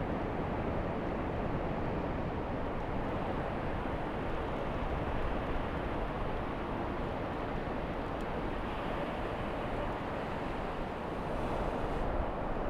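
Steady noise of wind and breaking surf on an exposed beach in a big swell.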